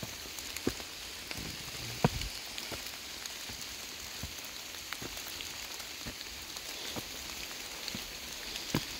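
Torrential rain pouring steadily, an even hiss broken by scattered sharp ticks, the loudest about two seconds in.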